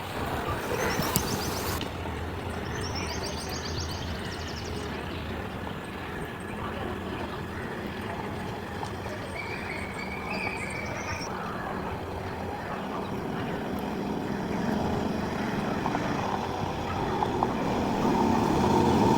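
A car driving along, its engine and road noise steady and growing louder near the end.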